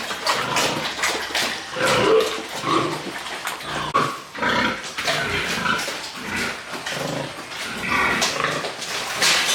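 Piglets grunting and squealing: many short, overlapping calls, with a sharper squeal near the end.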